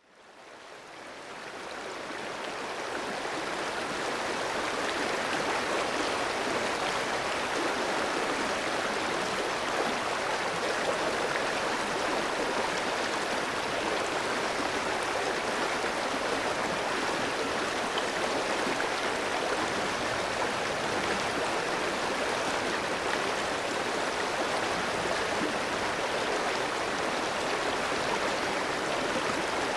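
Clear mountain stream flowing over rocks, a steady rush of running water that fades in over the first few seconds.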